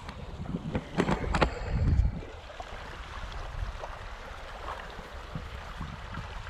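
River water lapping and moving at the bank, a steady wash, with a few short knocks and splashes in the first two seconds.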